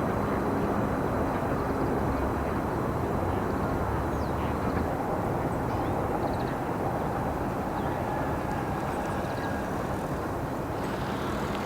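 Steady low outdoor rumble of distant engine noise, with a few faint, short, high chirps of small birds scattered through it.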